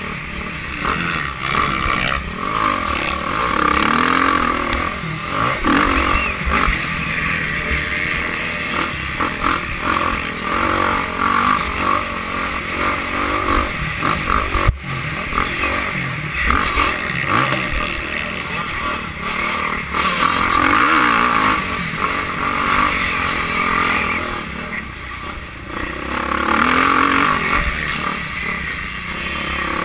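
Motocross bikes racing, their engines revving up and down as they go round the track, with a single sharp knock about halfway through.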